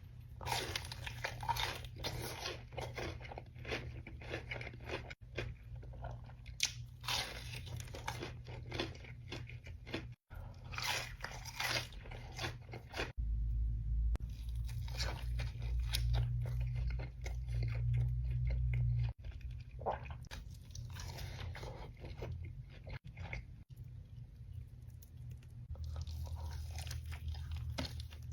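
Close-up eating sounds: repeated crunchy bites and chewing of crisp food, right at the microphone.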